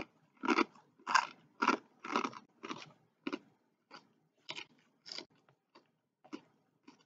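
A person chewing crunchy food close to the microphone: a run of crisp crunches about two a second, growing fainter and sparser after about three seconds.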